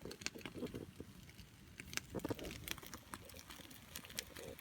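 Faint irregular crackling and popping from the camp cooking: food heating in a pan over the fire.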